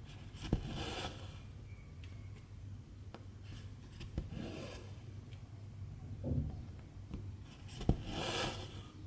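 Cross-stitch needle clicking through the fabric, followed each time by silk thread being drawn through with a short rasping hiss. This happens three times, about three and a half seconds apart.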